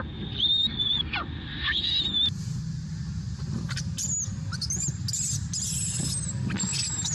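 Short, high-pitched squeals repeated every second or so from a macaque, most likely a distressed baby macaque, over a low steady background rumble. About two seconds in the background changes abruptly and the squeals come higher-pitched.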